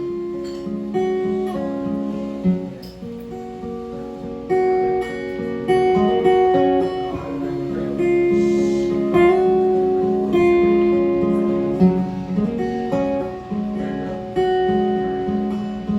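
Instrumental break in a live song: a strummed acoustic guitar with a line of held melody notes played over the chords.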